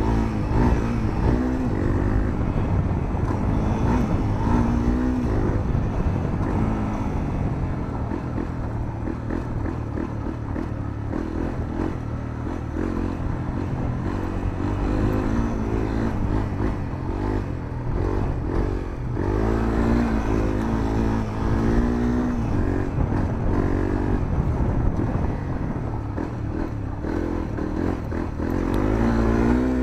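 Honda CRF250L single-cylinder four-stroke engine through a Moriwaki aftermarket muffler, heard from onboard while riding. The engine note climbs and drops again and again as the rider accelerates, shifts and rolls off the throttle, with a stronger run of revving in the second half.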